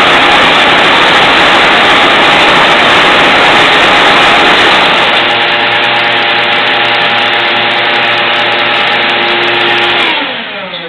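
12-inch Craftsman band saw with a 3/16-inch blade, running loud while cutting 3/4-inch wood. About halfway through the sound eases to a steadier hum. Near the end the saw is switched off and winds down, its pitch falling.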